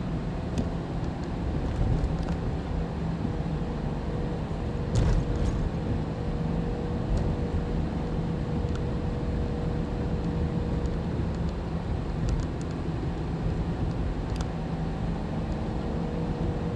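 Tow truck driving under load with a car on its bed: a steady engine drone with road noise, with a few short knocks or rattles, the loudest about five seconds in. The driver feels the truck is struggling with the weight.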